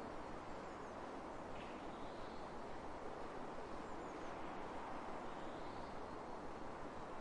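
Steady outdoor wind over an open grass field, an even soft rush, with a few faint high chirps about half a second and four seconds in.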